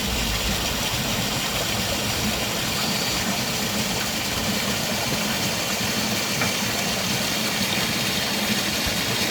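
A vehicle engine running steadily, with a constant low hum under a steady rushing noise.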